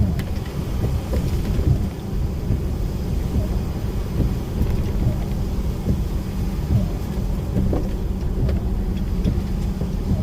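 DAF lorry driving: a steady low engine and road rumble, with frequent short knocks and rattles throughout.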